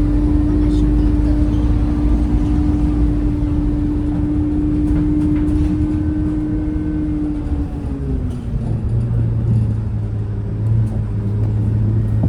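Scania K230UB bus's diesel engine running with a steady whine over a low rumble. About eight seconds in the note falls and settles into a lower hum, the engine easing off.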